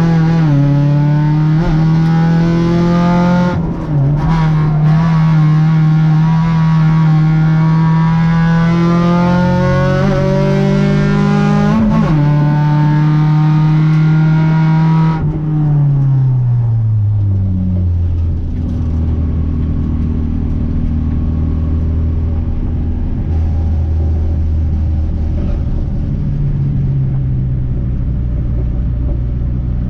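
Renault Clio 1.8's four-cylinder engine heard from inside the cabin, driven hard at high revs with its pitch slowly climbing and a brief break about four seconds in. About fifteen seconds in the revs fall away and the engine runs on at low revs, a little quieter, as the car eases off.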